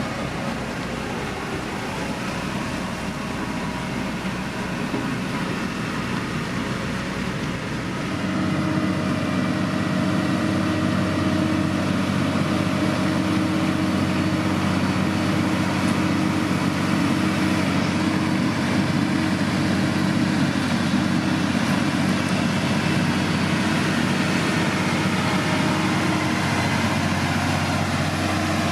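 Heavy diesel engine of road-building machinery running steadily. About eight seconds in it rises in pitch and gets louder, as under load or higher revs.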